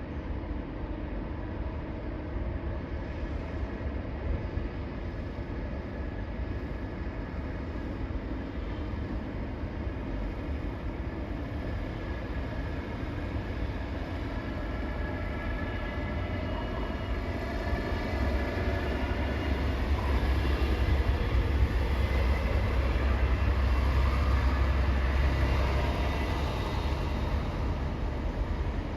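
Low, steady engine rumble of heavy vehicles at a ferry port, swelling from about two-thirds of the way in and easing near the end.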